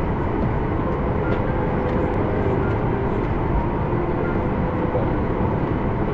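Steady cabin noise inside a Boeing 737 MAX 8 airliner on the ground during pushback: an even low rumble with a hiss over it.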